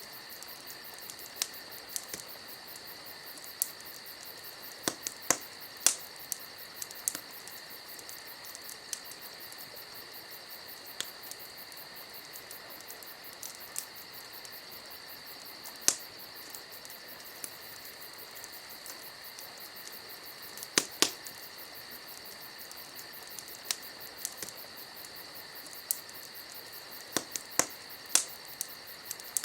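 Wood fire crackling, with irregular sharp pops, loudest in clusters about five seconds in, about twenty-one seconds in and near the end, over a steady high chirring of crickets.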